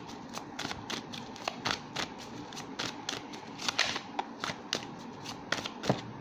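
A tarot deck being shuffled by hand: a run of short, sharp, uneven card flicks and snaps, about three or four a second.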